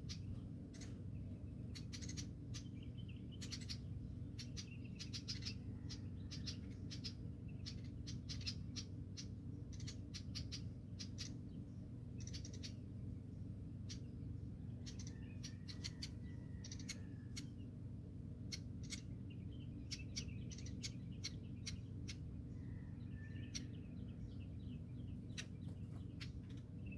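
Birds chirping: many short, high chirps in quick runs, over a steady low hum.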